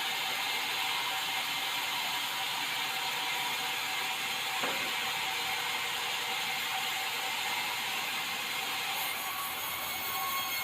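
Sawmill saw cutting white meranti timber, a steady, continuous sawing noise.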